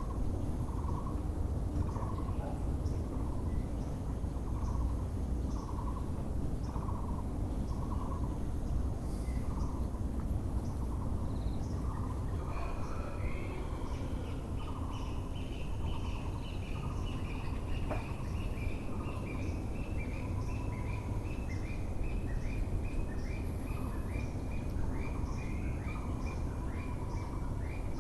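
Müller's (Taiwan) barbet calling a steady string of low, hollow notes, a bit under one a second. From about halfway a second bird adds a long run of quick, higher notes that slowly fall in pitch. A steady low background rumble of city noise runs underneath.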